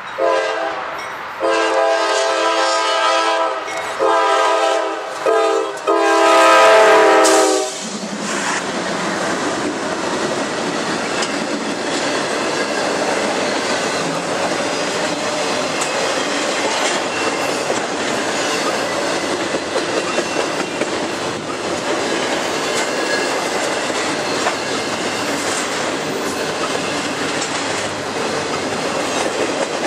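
Freight locomotive's air horn sounding a chord in several blasts over about eight seconds, the last blast the loudest and longest. Then the steady rumble and clickety-clack of double-stack container cars rolling past at speed.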